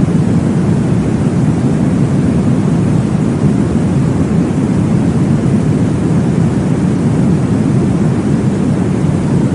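Steady, deep whooshing noise with no breaks, strongest in the low range: a womb-sound white-noise track meant to mimic the whoosh of blood flow heard in the womb.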